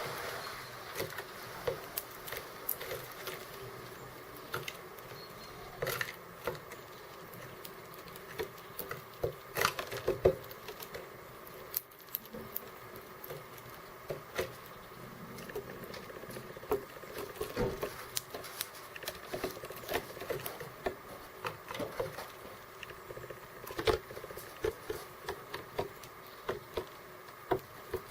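Birds pecking at seeds close to the microphone: irregular sharp taps and clicks, at times several a second.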